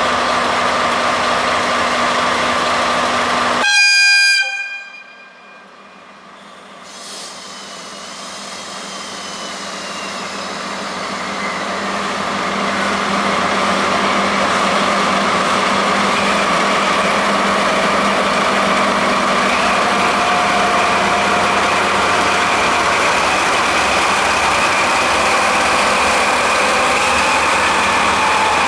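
Running noise of the Hamanasu express passenger train, with a short horn blast about four seconds in. The sound then drops and builds back up gradually to steady running noise.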